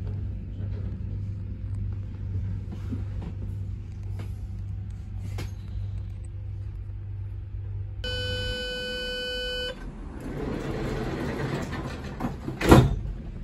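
Inside an SNCB electric commuter train coming to a stop: the steady low hum of the train dies away, a door-release beep sounds for about a second and a half, then a rushing hiss from the opening sliding passenger doors and a loud clunk near the end.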